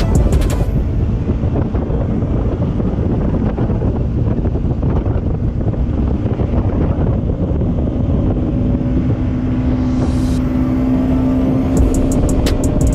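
Bajaj Pulsar NS200's single-cylinder engine running at steady road speed under heavy wind rumble on the camera microphone; a steady engine note comes up clearly from about eight seconds in.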